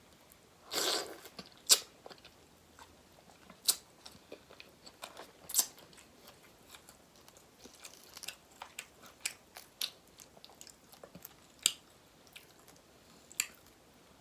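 A person chewing a king prawn close to the microphone: a short wet burst about a second in, then scattered sharp mouth clicks and smacks.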